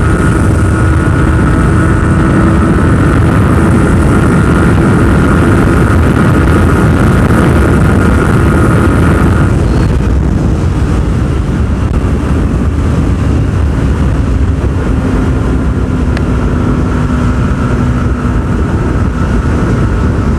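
Wind rushing hard over the microphone, with a Yamaha R15 V4's 155 cc single-cylinder engine running at high, steady revs during a flat-out run. About nine and a half seconds in, the engine note drops a little and then holds steady again.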